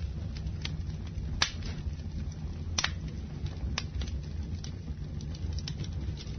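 Campfire burning: a steady low rumble of the flames with sharp crackles and pops of burning wood, scattered about once a second, the loudest about one and a half seconds in.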